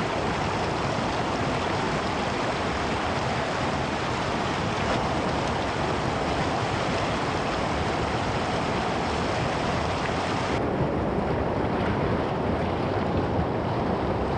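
Rushing mountain creek water, a steady full hiss. About ten seconds in the upper hiss drops away suddenly and the rush goes on duller.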